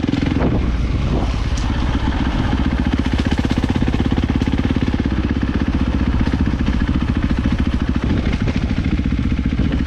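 450cc dirt bike's single-cylinder four-stroke engine running steadily, its firing pulses even throughout.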